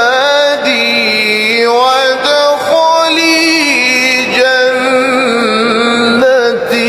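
A male voice singing a slow, unaccompanied-sounding chant, holding long notes with a wavering ornament and sliding between pitches, in the manner of an Islamic nasheed.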